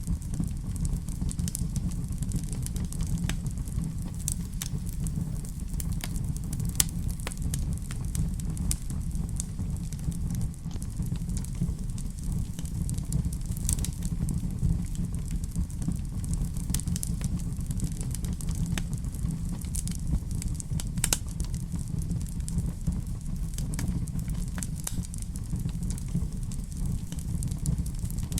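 Wood fire crackling in a fireplace: scattered sharp pops and snaps over a steady low rumble, with a few louder pops.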